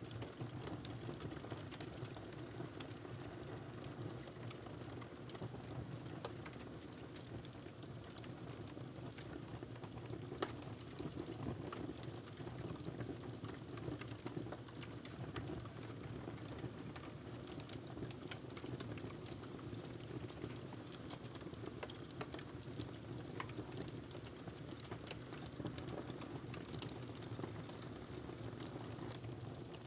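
Wood fire crackling in a fireplace: scattered sharp pops and clicks over a low steady rumble, with one louder pop about ten seconds in.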